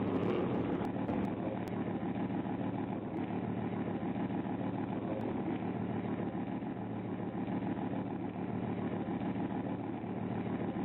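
A car engine idling with a steady, even low rumble.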